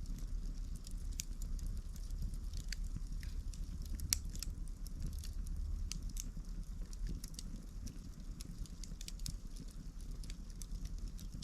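Campfire burning, the wood crackling with scattered sharp pops over a low, steady rumble.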